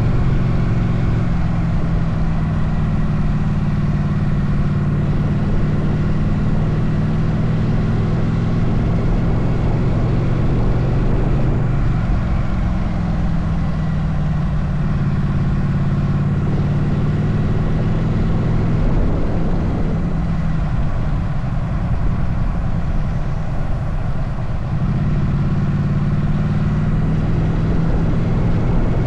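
Motorcycle engine running on the move, its note shifting a few times as the revs change, with wind rumble on the microphone.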